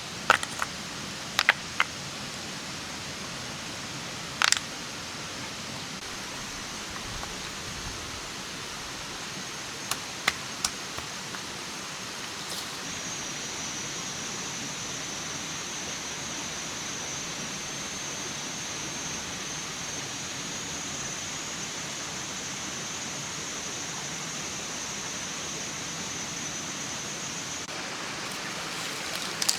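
Steady outdoor hiss with a handful of sharp clicks and snaps, scattered in the first dozen seconds. About a third of the way in, a high, thin, steady buzz starts; it stops shortly before the end.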